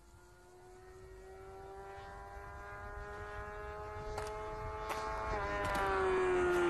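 Motorcycle engine held at high, steady revs as the bike approaches, growing steadily louder, its pitch dipping near the end as it comes by.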